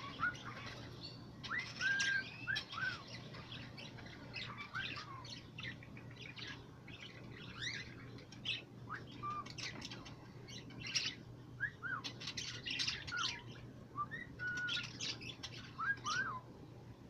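Caged parakeets chirping and warbling: a busy, irregular string of short chirps and quick rising and falling whistles with no pause.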